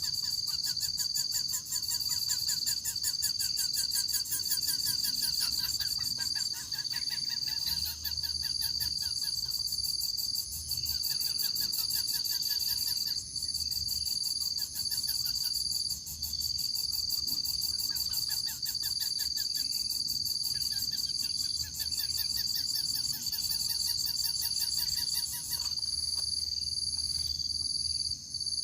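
Insect chorus: a continuous high-pitched drone of several steady, pulsing notes, with a lower rapid trill that starts and stops every few seconds.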